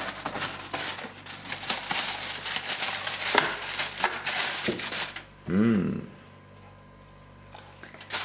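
Plastic packaging crinkling and rustling as it is handled, with a dense run of small crackles for about five seconds.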